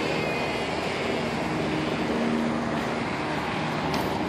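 Steady outdoor city noise led by a low engine hum, with a couple of faint clicks near the end.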